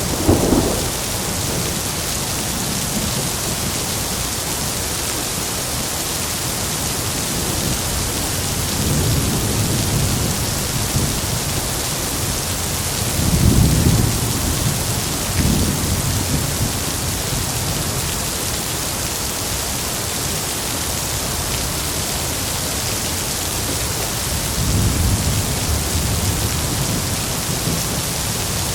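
Heavy rain falling steadily, with rolls of thunder rumbling in and out over it: one at the very start, a softer one about a third of the way in, the loudest about halfway through, and another near the end.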